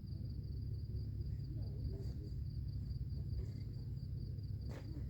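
Insects, likely crickets, trilling in a steady high-pitched pulsing chirr over a low steady rumble, with a single sharp knock near the end.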